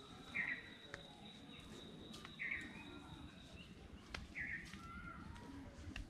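A bird giving the same short call four times, about every two seconds, over faint footsteps and a thin steady high tone.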